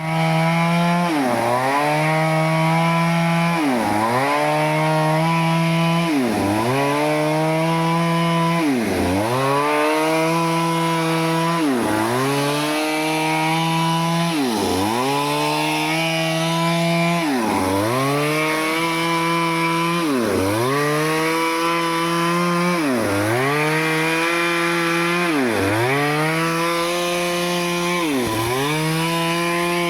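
Stihl two-stroke chainsaw running at high speed, its pitch dropping sharply and climbing back again about every three seconds.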